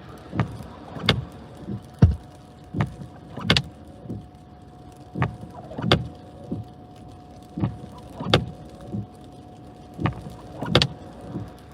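Irregular sharp knocks and thumps inside a vehicle, about one to two a second, over a faint steady tone.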